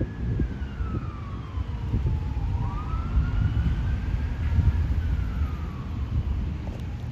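A freight train of tank cars rumbles past, while a siren wails in the background, its pitch sliding slowly down, back up and down again.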